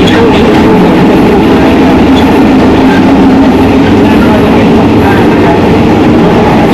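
Passenger train running along the track, heard from on board: a loud, steady rumble of the wheels and carriage.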